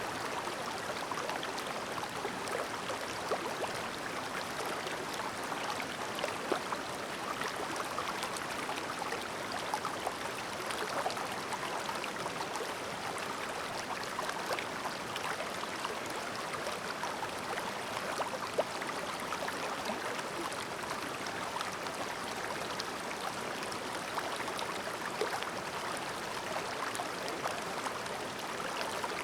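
Shallow clear mountain stream babbling steadily over stones, with many small splashes and droplet ticks through an even rush of water.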